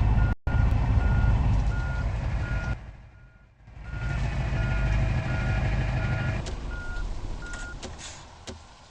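Truck's reversing alarm beeping steadily, about one and a half beeps a second, over the loud low rumble of its engine. The sound dips out briefly about three seconds in, and the beeps stop near the end as the engine fades.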